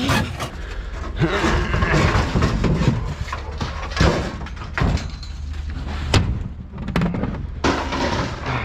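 Heavy scrap appliances being shoved and dropped while loading: scraping and clattering metal with several bangs, the sharpest about four and six seconds in, over a steady low rumble.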